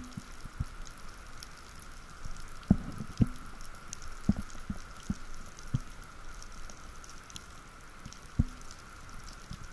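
Underwater ambience picked up through a diving camera's housing: irregular dull low thumps from the diver's movement through the water, over a steady faint hiss with faint scattered high crackles.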